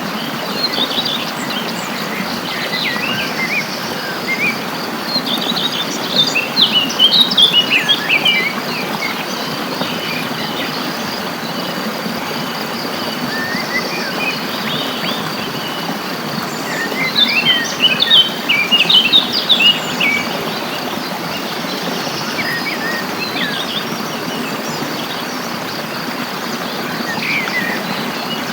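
Several small birds chirping and twittering in bursts, busiest about six seconds in and again around seventeen seconds, over a steady high insect drone and a constant background hiss.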